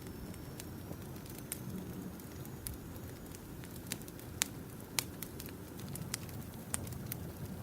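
Campfire burning, with irregular sharp pops and snaps over a low steady rumble.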